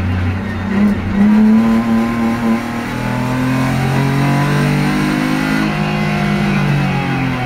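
BMW E30 325i's M50 inline-six engine pulling hard on track, heard from inside the cabin, its note rising and falling in pitch as the car accelerates and lifts.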